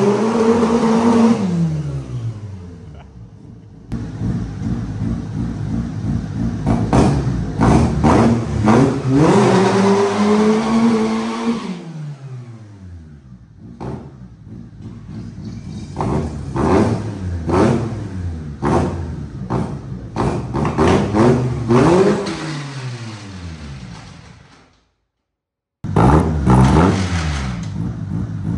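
Twin-engine Honda Civic revving hard in repeated bursts, the engine pitch climbing and falling again and again as the car is driven and drifted on plastic 55-gallon drum sleeves. The sound changes abruptly a few times, with about a second of silence near the end.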